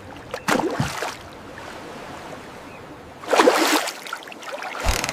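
Steady water ambience, with three short sound effects over it: one about half a second in, a louder noisy one around three and a half seconds, and a sharp knock near the end.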